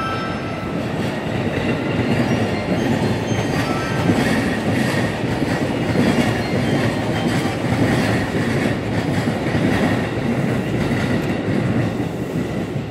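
JR East E233 series electric commuter train pulling in along the platform and slowing to a stop: steady wheel-on-rail rolling noise with clacks over the rail joints and a faint brake squeal.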